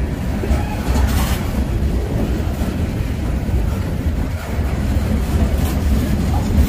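Freight train rolling past with a steady low rumble, and wind buffeting the microphone.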